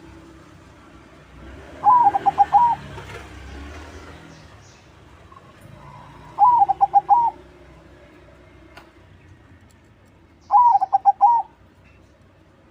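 Crossbred zebra dove (perkutut crossing) singing: three song phrases, each a quick run of rolling coo notes, about four seconds apart.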